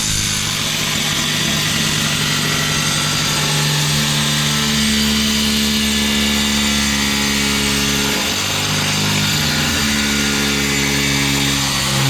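Angle grinder cutting through porcelain tile: a steady motor whine with a gritty cutting hiss, the motor's pitch shifting a few times as the cut goes on.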